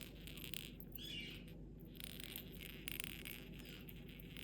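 A faint, short falling chirp from a pet parrot about a second in, over soft scattered clicks.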